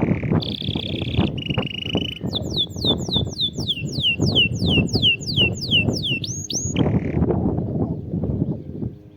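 Domestic canary singing: rolling trills, then a fast series of descending whistled notes, about three or four a second, before the song stops about seven seconds in. A busy low rustling and clicking noise runs beneath it.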